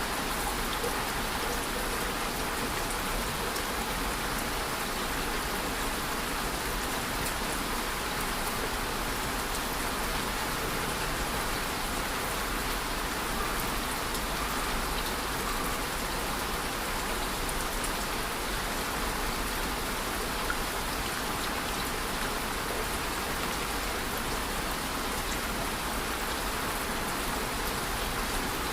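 Steady rain falling, an even patter of drops on a surface with no let-up.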